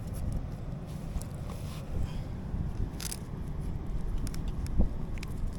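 Scattered clicks, scrapes and rustles of close handling over a steady low rumble, with a short hiss about three seconds in.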